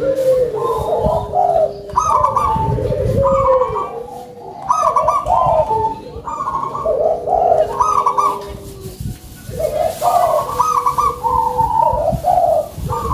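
Local zebra dove (perkutut) cooing: a steady run of repeated coo phrases, each rising and falling, with brief lulls about four and nine seconds in.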